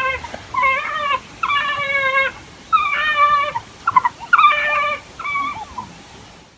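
An animal giving a series of about ten short, high whining calls, one after another, each under a second long, some bending in pitch.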